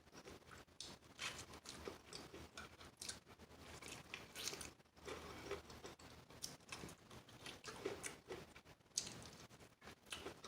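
Close-miked chewing of crispy fried chicken wings: faint, irregular crunches of the breaded skin between the teeth, with short pauses between bites.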